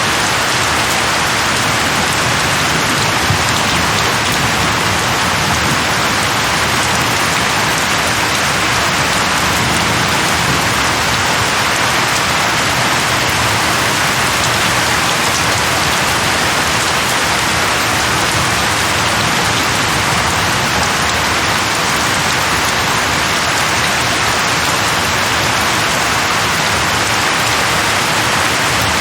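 Steady heavy rain falling and pattering on a surface, an even hiss without a break.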